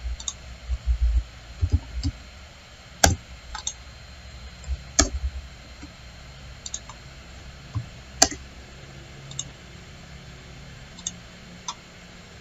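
Computer mouse clicks at irregular intervals, about ten in all, three of them sharp and loud, with a few dull low thumps in the first couple of seconds.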